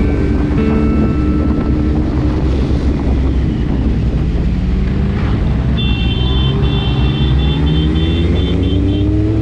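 Motorcycle engine running at speed, its pitch rising as it accelerates in the second half, under heavy wind noise on the microphone.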